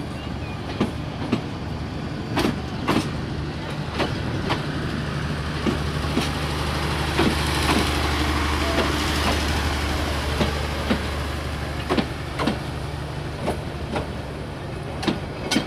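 Passenger coaches of a Bangladesh Railway intercity train rolling past at low speed. The wheels clack over rail joints, often in pairs about half a second apart, over a steady low hum and rolling rumble that swells in the middle.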